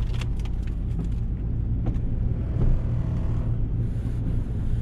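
Snow plow vehicle's engine running steadily under load while the plow pushes heavy, sticky snow, with a few light clicks near the start and a brief louder bump about two and a half seconds in.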